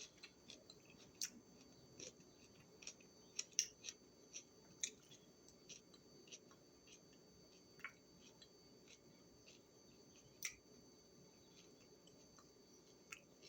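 Scattered faint, sharp clicks and ticks at irregular intervals over near silence, with a faint steady high-pitched tone beneath them.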